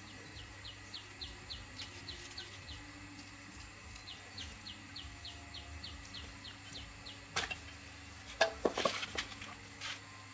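A small bird calling in two runs of quick, high, falling chirps, about four a second. A few sharp clicks and knocks follow near the end.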